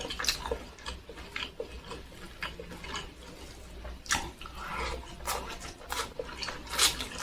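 Close-miked chewing and mouth sounds of someone eating fried tempeh with sambal: irregular wet smacks and clicks of the lips and tongue while chewing.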